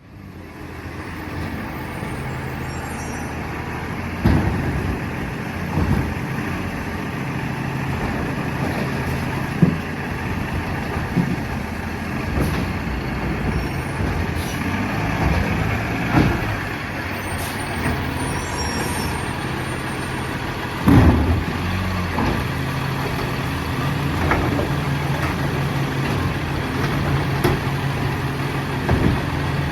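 Freightliner M2 garbage truck with a Labrie Automizer side-loader arm, its engine running steadily, with several sharp bangs and clunks, the loudest about 21 seconds in.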